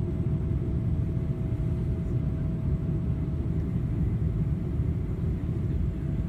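Steady cabin rumble of a Boeing 777-300ER in flight on approach, heard from inside the cabin at a window seat: airflow and GE90 engine noise, with a faint steady hum above the low rumble.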